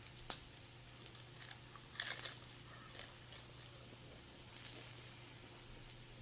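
Close-up eating sounds: scattered crunching bites and chewing, with a cluster of crunches about two seconds in, then a soft hiss in the second half.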